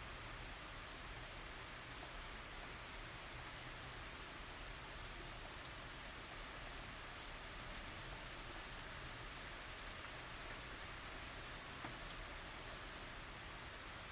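Steady, gentle tropical rain falling, with a dense patter of individual drops striking surfaces and a faint tick now and then.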